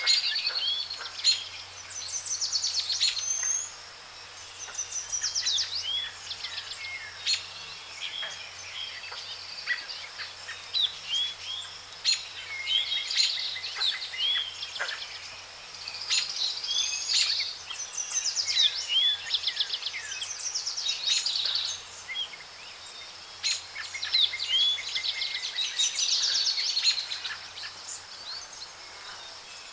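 A dense chorus of tropical forest birds: many overlapping chirps, rapid trills and short rising whistles, with a faint steady low hum underneath.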